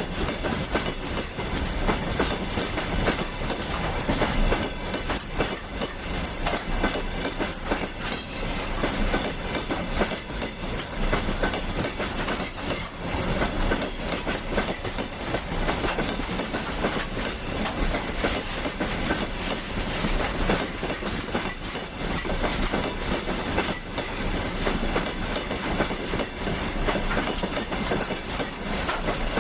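Train wheels running along the track, with dense clattering and rattling over a steady noise that holds at one level throughout.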